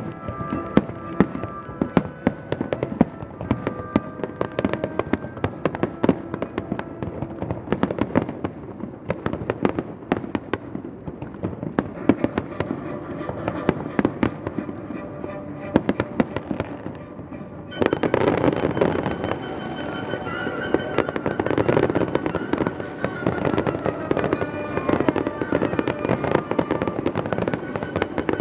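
Fireworks bursting in rapid, irregular succession over music. About eighteen seconds in, the bursts and the music get louder and fuller.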